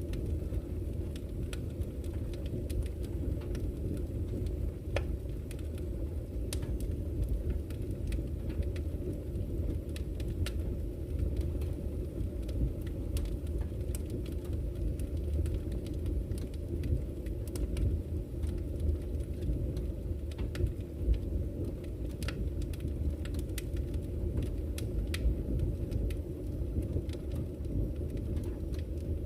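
Campfire crackling with scattered sharp pops, one stronger about five seconds in, over a steady low rumble of flowing river water.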